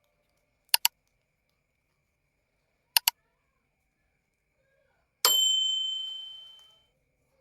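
Two quick double clicks about two seconds apart, then a single bright bell ding that rings out and fades over about a second and a half.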